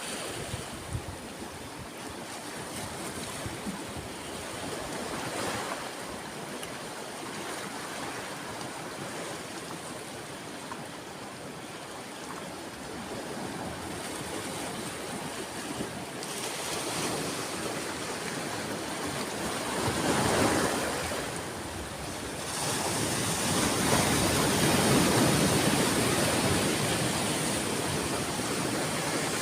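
Ocean waves washing onto a shore in a continuous rush. One wave breaks louder about two-thirds of the way through, and the surf stays louder near the end.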